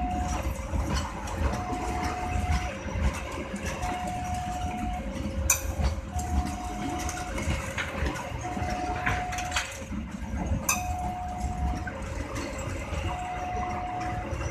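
Railway level-crossing warning alarm sounding a slow alternating two-tone signal, a higher tone then a lower one, each about a second long, repeating over and over. Beneath it a low engine rumble runs steadily, with two sharp clicks, one midway and one later.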